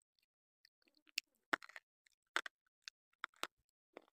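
Chewing white slate pencil: a string of sharp, dry crunches and clicks, about seven in all, beginning about a second in.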